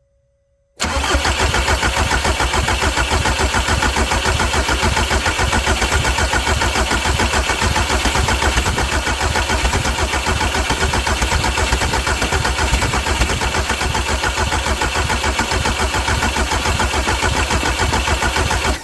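Jetta TDI diesel engine cranking on the electric starter without catching, an even pulsing chug that starts about a second in and stops abruptly when the key is released. The crank is to bleed air from the fuel system through a cracked-open injector line after a fuel filter change.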